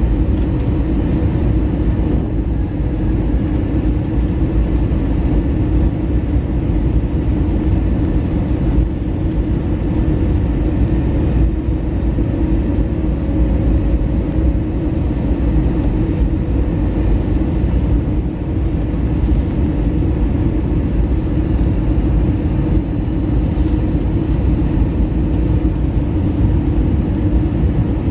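Steady airliner cabin noise inside an Airbus A321neo in flight: a continuous deep roar of engines and airflow with a faint steady hum.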